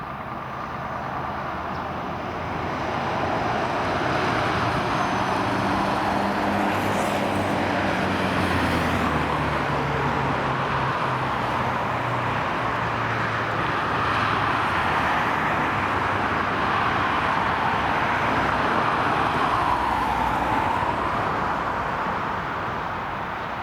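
Airbus A319-131 twin IAE V2500 turbofan jet engines running at takeoff thrust during the takeoff run, a steady jet noise that grows louder over the first few seconds and then holds.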